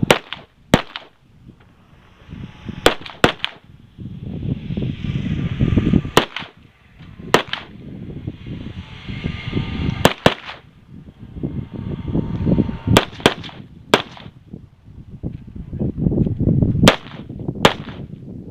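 Gunshots in a 3-gun competition stage, about fourteen sharp reports fired singly or in quick pairs and triples, with pauses of one to three seconds between groups. A rumbling, rustling noise fills the gaps between shots.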